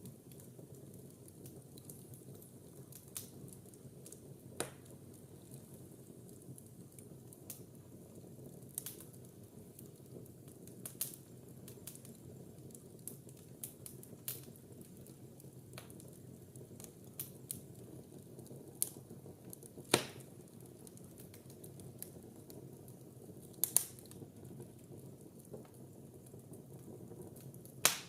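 Fireplace fire burning with a steady low rustle of flames and irregular crackles, a few of them sharp, loud pops.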